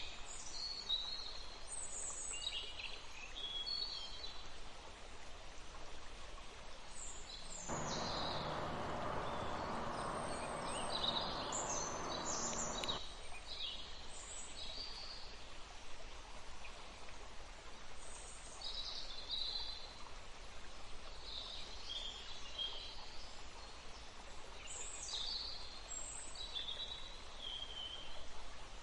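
Forest songbirds chirping and calling in many short phrases over a faint steady hiss. About a quarter of the way in, a louder rushing noise with a low hum cuts in abruptly, lasts about five seconds, and stops just as suddenly.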